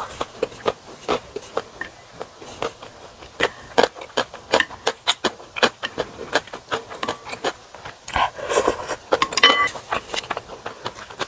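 Close-up chewing of a mouthful of gimbap: a steady run of short wet mouth clicks and smacks, with a louder, busier cluster of smacking about eight seconds in.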